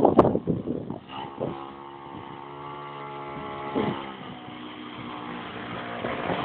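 Minibike's small engine running, with loud rough bursts in the first second, then a steady drone that swells briefly about four seconds in.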